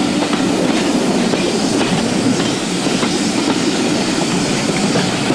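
A triple-headed steam train running, heard from aboard one of its coaches: a steady rumble from the carriages, with the wheels clicking over the rail joints.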